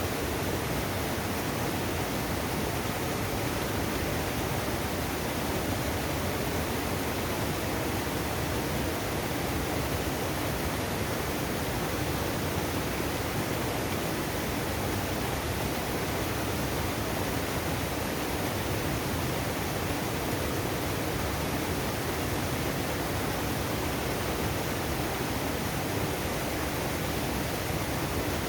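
Mountain stream rushing over rocks in a steady, unbroken wash of water noise.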